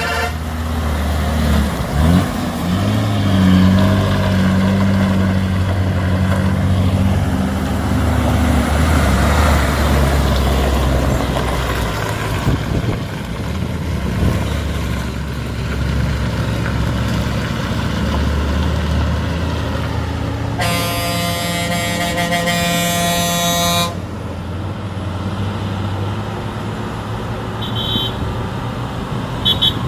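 Truck engine running steadily on the road, with a long blast of the truck's horn lasting about three seconds two-thirds of the way through, and two short high beeps near the end.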